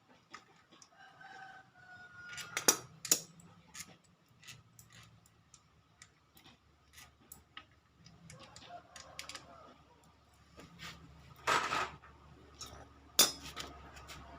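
Scattered sharp clicks and knocks, a few of them loud, with a short pitched call about a second in.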